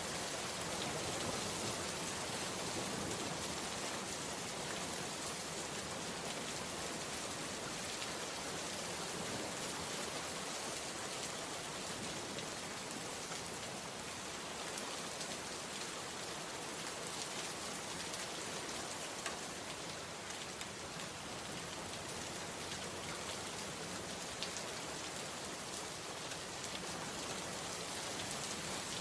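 Steady rain falling, a constant even hiss with a few louder individual drops ticking through it.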